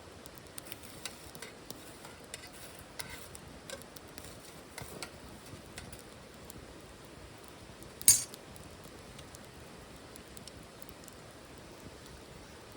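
Wood crackling as it burns in a titanium wood stove: scattered small snaps, and one loud sharp pop about eight seconds in.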